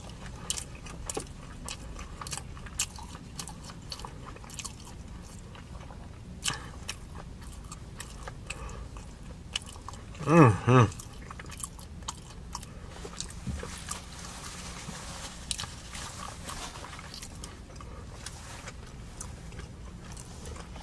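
Close-up chewing and lip smacking of a mouthful of sushi burrito, with many small wet clicks. Two short hummed "mm" sounds come about ten seconds in.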